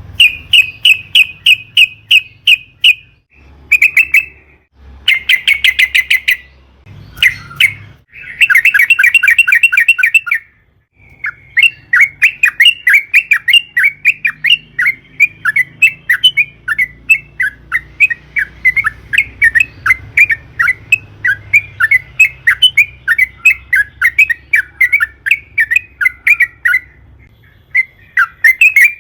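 Yellow-vented bulbul (trucukan) calling in loud bursts of rapid, chattering notes, a few short bursts at first, then one long unbroken run of about fifteen seconds.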